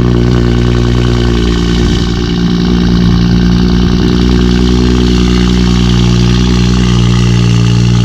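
Car engine idling steadily with an even, unchanging pitch.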